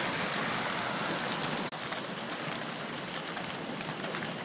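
Heavy rain mixed with small hailstones pattering densely and steadily on surfaces. The sound cuts out for an instant a little under two seconds in.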